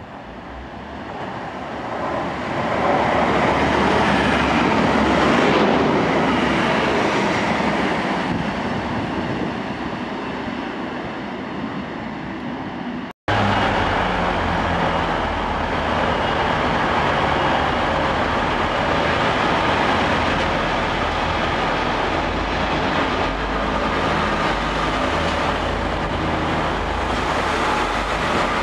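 A train approaching through a station, its noise swelling over the first few seconds and holding loud. After a sudden cut about halfway through, a diesel multiple unit's engine is running at a platform under a station roof, its low note shifting up and down in steps.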